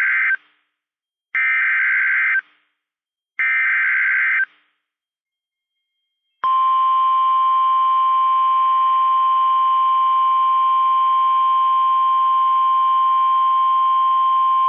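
NOAA Weather Radio Specific Area Message Encoding (SAME) header: the tail of one warbling digital data burst, then two more about a second apart. About six seconds in, the steady 1050 Hz warning alert tone starts, the alarm that signals a warning such as a severe thunderstorm warning is about to be read.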